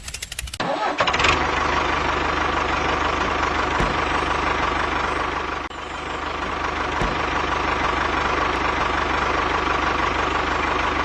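Small motor of a home-built mini tractor running steadily, with a thin high whine over a low hum; it starts about half a second in after rapid ticking and dips briefly about halfway.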